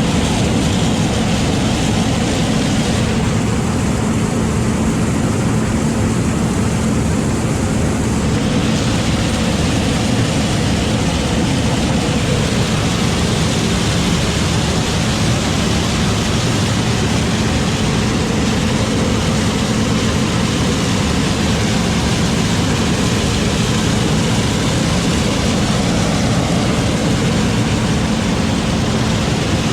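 A heavy farm vehicle engine running steadily under load, a constant low drone with a broad mechanical hiss over it.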